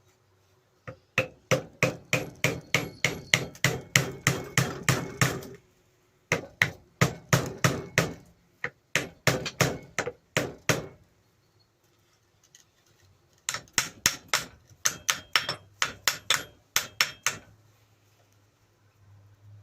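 Small hammer tapping a screwdriver against a stuck part of a grinder to knock it loose. The light metallic taps come about three or four a second, in four runs with short pauses between them.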